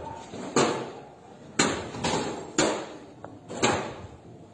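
Heavy blows striking motorbikes as they are smashed up, four strikes about a second apart, each with a short metallic ring.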